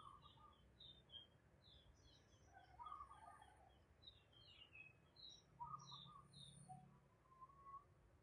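Faint bird chirping: a rapid run of short, high chirps with a few lower calls mixed in.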